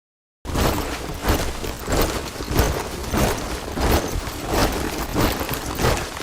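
Many soldiers' boots marching in step: a steady beat of about three footfalls every two seconds, starting after half a second of silence.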